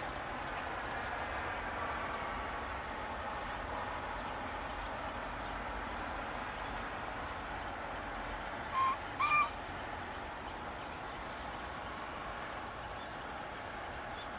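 Male green pheasant crowing: two short, harsh notes about half a second apart, about nine seconds in. A steady background hum runs under the calls.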